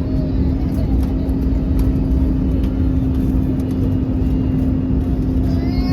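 Steady cabin noise inside an Airbus A321neo: a loud, even engine and airframe rumble with a constant low hum.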